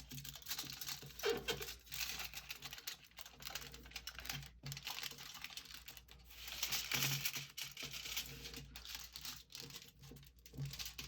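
Aluminum foil crinkling and crackling with small irregular clicks as a sheet is folded and creased by hand, busiest around the middle.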